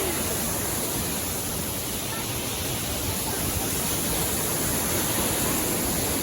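Steady rush of water from a river waterfall.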